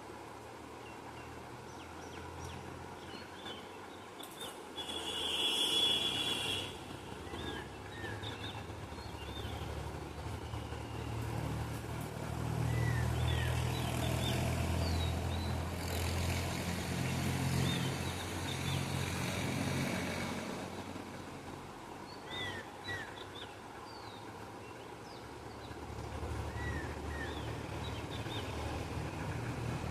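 Small birds chirping with short, quick calls, scattered and repeated throughout, over a low rumble that swells for about ten seconds in the middle and again near the end.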